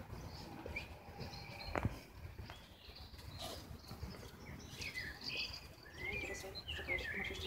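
Small birds chirping in short, quick calls, busiest in the second half, over a low rumble of outdoor background noise.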